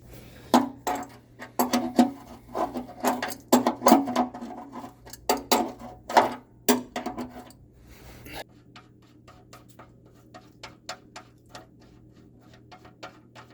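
Metal hand tools clinking and knocking irregularly for about eight seconds, then a fainter, even ticking at about two to three a second.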